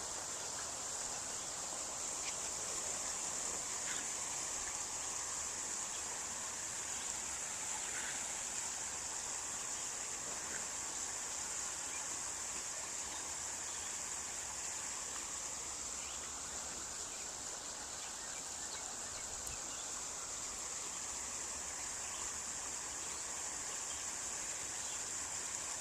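Insect chorus outdoors: a steady, unbroken high-pitched drone with faint background hiss beneath it.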